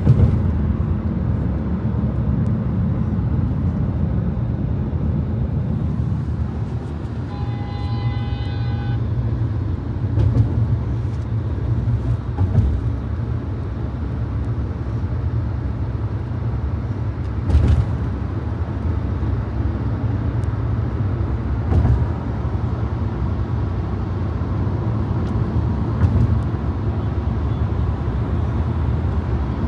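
Car driving in city traffic: a steady low rumble of engine and road, with a few short knocks along the way. About seven seconds in, a brief pitched tone sounds for a second or two.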